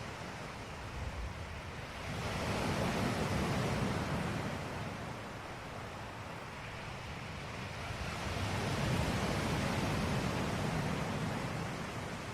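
Ocean waves breaking and washing on a shore, two slow swells a few seconds long, about six seconds apart.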